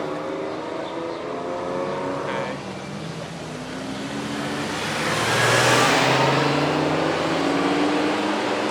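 Car engines running as cars drive past. One car accelerates by about five seconds in, its engine and exhaust loudest around the six-second mark before easing off.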